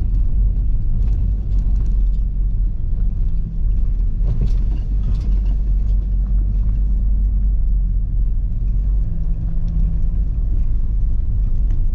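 Car driving slowly along a rough, stony farm track, heard from inside: a steady low rumble of engine and tyres, with a few faint ticks of gravel under the tyres.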